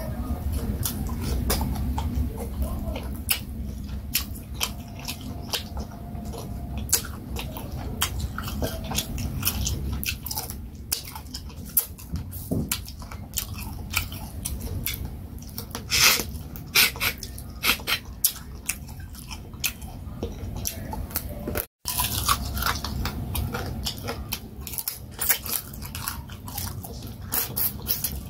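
Close-up eating sounds: chewing and biting on turkey wing with vegetable soup and fufu, with many sharp clicks. The sound drops out briefly about three-quarters of the way through.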